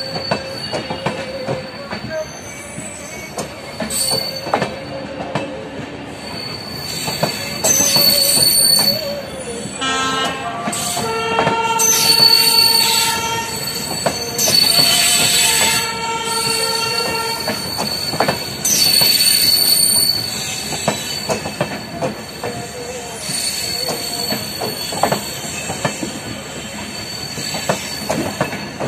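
LHB passenger coaches rolling past close by, wheels knocking over rail joints and squealing in high thin tones, with a loud stretch near the middle.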